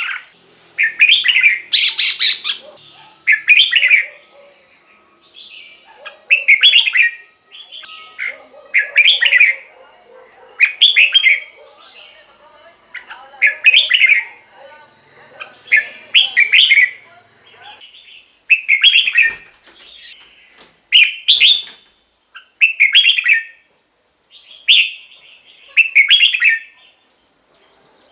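Red-whiskered bulbul singing: short, loud, bright song phrases repeated about every one and a half to two seconds, with fainter lower chatter between them for a while in the middle.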